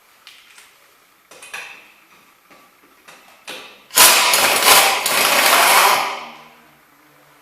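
A few light clicks and knocks of tools being handled, then an impact wrench running in one loud, rattling burst of about two seconds, starting about four seconds in and dying away.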